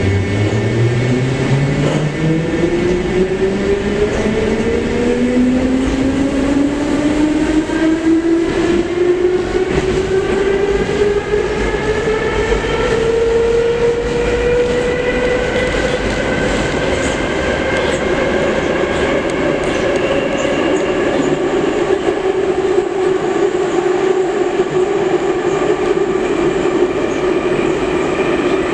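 Metro train pulling away from a station: the traction motor and gear whine rises in pitch as the train speeds up for about the first fifteen seconds, then holds steady at running speed over the rumble and clatter of the wheels on the rails.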